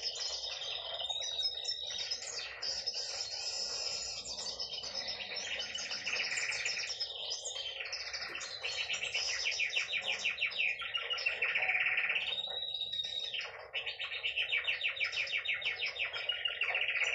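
Hen canary singing: a continuous run of fast trills, with a few held whistled notes in between.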